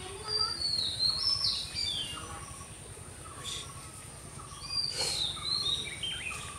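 Bird song: two phrases of high whistled notes that step down in pitch, one near the start and another about five seconds in, over steady background noise and a constant high tone.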